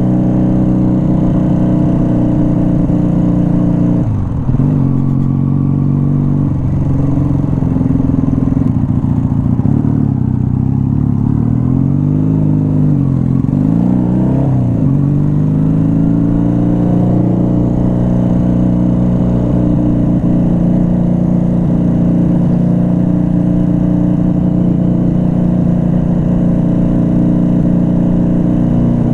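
Motorcycle engine running under way, heard from the rider's own bike. Its pitch drops briefly about four seconds in, rises and falls several times around the middle as the throttle is opened and closed, then holds steady.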